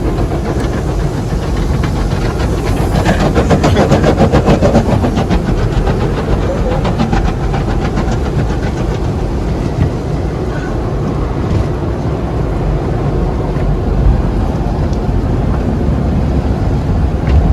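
Automatic car wash machinery working over the car, heard from inside the cabin: a steady rumble and wash noise, with a rapid clattering about two to six seconds in.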